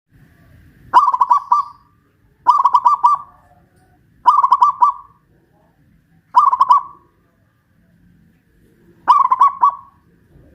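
Zebra dove singing its rolling, cooing song, five phrases of under a second each, spaced about two seconds apart.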